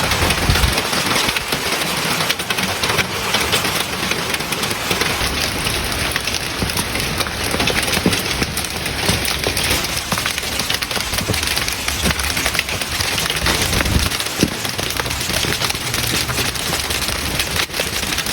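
Hailstorm: hailstones falling hard, a dense, steady clatter of countless small impacts over a rushing hiss.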